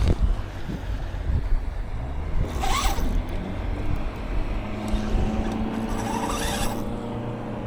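A nearby motorboat engine running steadily, its pitch rising a little about halfway through, with two short hissing, splashy bursts over it.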